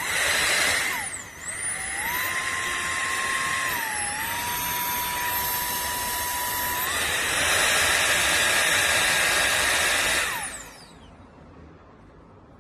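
K&F Concept BS400 electric air duster's high-speed motor starts suddenly and runs with a loud rushing whir and a high whine. It changes speed several times: the whine dips, then steps up. It is switched off about ten seconds in, the whine falling away as it spins down.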